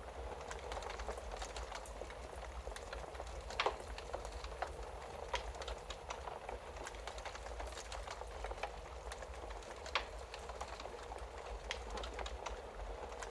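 Wood fire in a fireplace crackling: a steady hiss dotted with frequent small pops, and a low steady rumble underneath. Two louder pops stand out, one about a third of the way in and one about three-quarters through.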